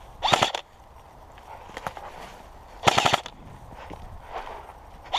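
Airsoft electric gun firing two short rapid bursts, one just after the start and another about three seconds in.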